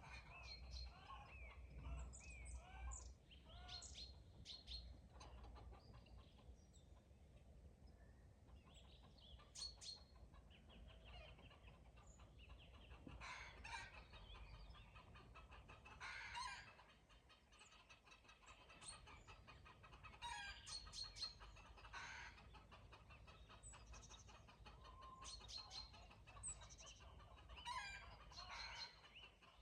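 Faint domestic chickens clucking, heard again and again among many songbirds' chirps and short calls.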